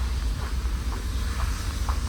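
Wind buffeting the microphone as a steady low rumble, with footsteps about twice a second.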